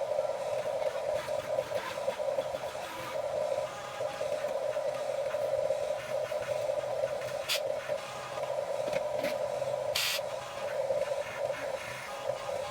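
Small electric gear motors of a Huina 1550 RC excavator whining steadily as it works, with a couple of sharp clicks, one about halfway through and a louder one near the end.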